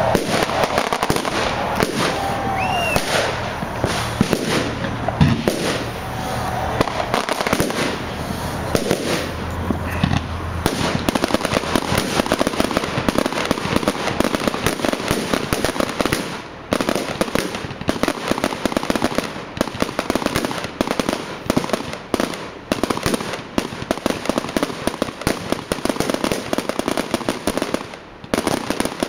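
Fireworks display: a run of bangs and crackles that thickens into a near-continuous crackling barrage about ten seconds in, with a few short whistling glides in the first few seconds.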